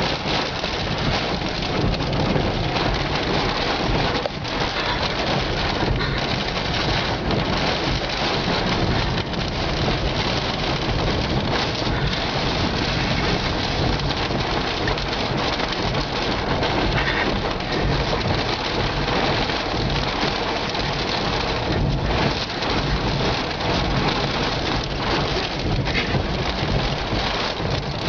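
Heavy rain and storm wind, a steady dense hiss with a low rumble.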